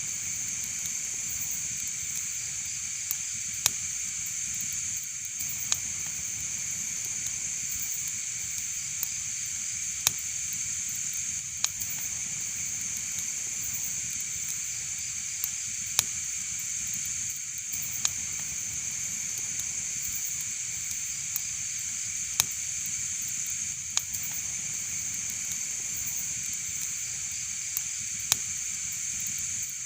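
Wood fire burning in a fireplace: a steady hiss with sharp crackling pops about every two seconds.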